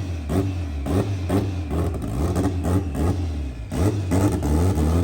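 Turbocharged Honda B-series four-cylinder engine in an EK Civic revving in quick repeated surges, rising and falling about three times a second, as the car is eased along under the clutch.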